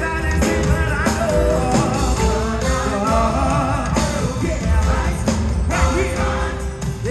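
Live gospel music: a gospel choir and band performing, with singing over bass and drums.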